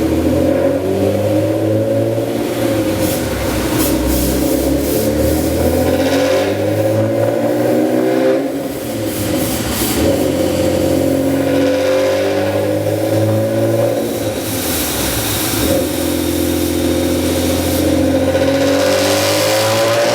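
Comptech-supercharged Honda NSX V6 with a straight-piped exhaust, loaded on a dyno and revving up in long rising sweeps. The pitch falls back twice, about eight and about fifteen seconds in, then climbs again.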